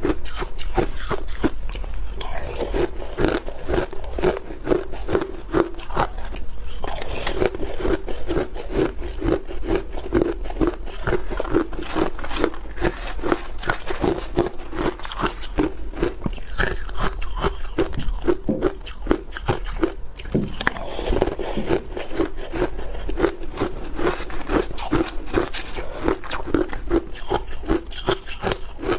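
A person biting and chewing crunchy block ice, a dense run of sharp crunches several to a second.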